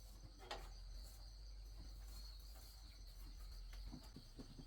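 Insects trilling steadily at a high pitch in the background, over a low hum, with a single click about half a second in.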